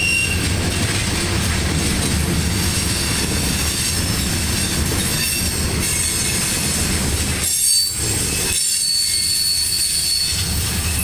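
Loaded covered hopper cars of a freight grain train rolling past at close range: a steady rumble of wheels on rail with high-pitched wheel squeal as the cars take the curve onto the connection track. The low rumble briefly drops away a little before the end.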